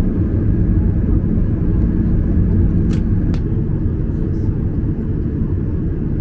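Steady low rumble of cabin noise inside a Boeing 737-800 before takeoff, with two sharp clicks about three seconds in.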